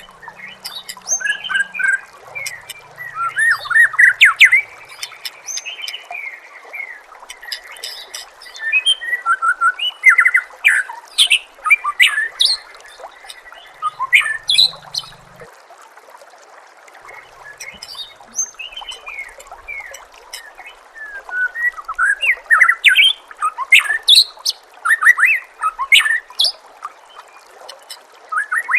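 White-rumped shama (murai batu) singing rapid, varied whistled phrases in bursts separated by short pauses, over a steady hiss of trickling water.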